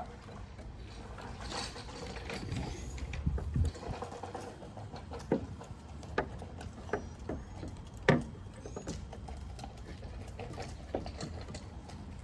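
Scattered clicks and knocks of hand tools and small metal parts being worked while the carburetor and its linkage are taken off a lawnmower engine, with the loudest knock about eight seconds in.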